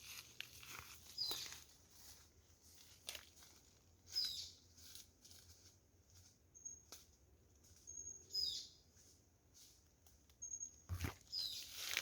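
Birds chirping now and then over scattered rustles and crunches, with a heavier thump about eleven seconds in.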